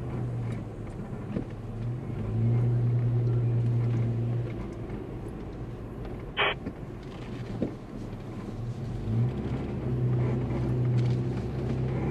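Four-wheel drive's engine running as it is driven slowly, its note swelling louder twice as it pulls away, with a short sharp click about six seconds in.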